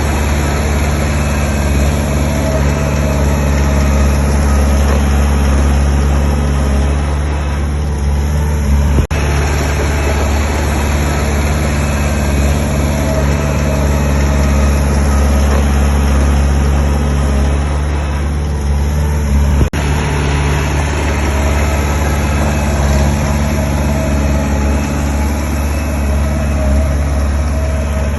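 Heavy construction machinery's diesel engine running steadily, with two brief clicks along the way.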